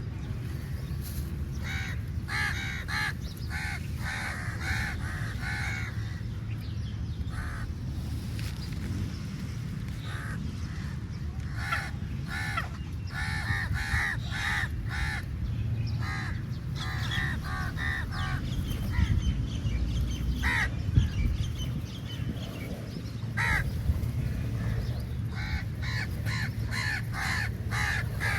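Crows cawing: runs of short, repeated calls that come in clusters and pause between them, over a steady low background rumble.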